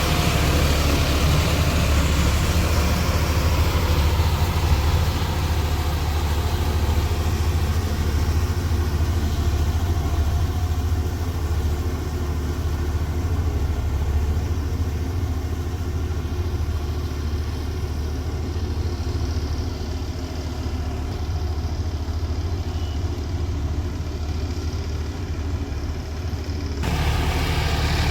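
John Deere 5405 tractor's diesel engine running steadily. The sound changes suddenly about a second before the end.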